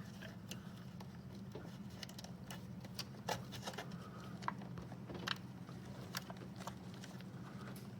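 Light, scattered plastic clicks and small knocks of an ignition coil pack and its rubber boot being handled and pushed down onto a spark plug, over a steady low hum.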